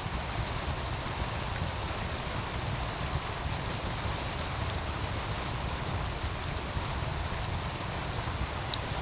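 Steady rush of a meltwater stream under a wood fire crackling with scattered sharp pops, one louder pop near the end. A low rumble runs beneath, typical of wind on the microphone.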